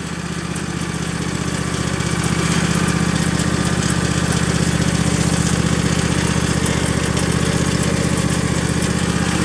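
Tractor engine running steadily with an even, rapid pulse, growing a little louder over the first couple of seconds and then holding.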